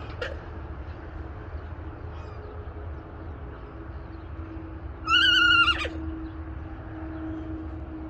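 Alpaca giving one short, high-pitched call about five seconds in, wavering slightly and sliding down in pitch as it ends. A steady low rumble runs underneath.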